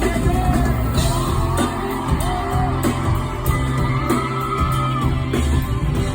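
Live pop band performance: a lead vocal sings long held notes over guitar, bass and drums, with some yelling mixed in.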